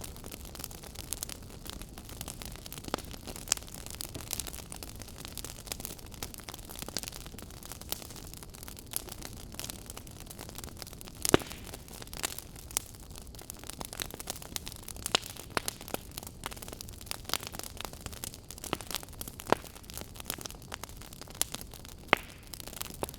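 Wood fire crackling in a fireplace: a steady low hiss with frequent sharp pops and snaps at irregular intervals, one louder pop about halfway through.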